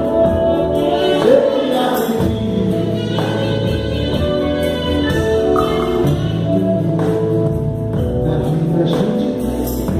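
Live band music with singing voices over a bass line and a steady percussion beat.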